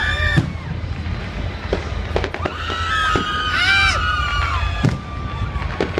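Hogmanay fireworks going off: scattered sharp bangs, with longer held pitched sounds in the middle and a steady low rumble underneath.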